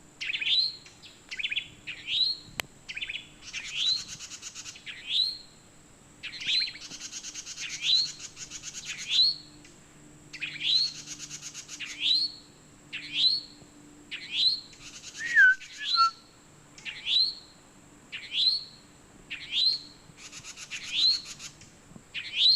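A wren and other songbirds calling. A short rising call repeats about once a second, broken by several dry, buzzy chatters. A lower falling whistle comes about fifteen seconds in.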